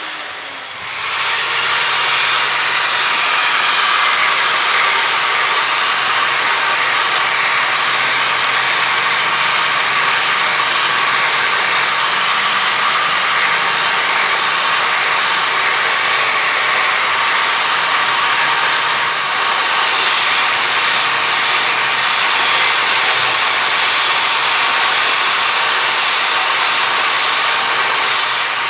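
A small handheld electric tool running steadily, a continuous whir and hiss that starts just after a brief dip and does not change in speed.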